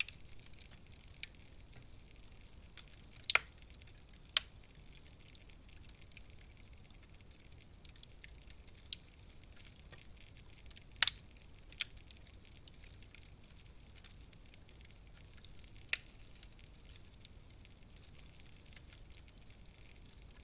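Wood fire crackling in a fireplace: a soft steady hiss with scattered sharp pops and snaps, the loudest a few seconds in and again about halfway through.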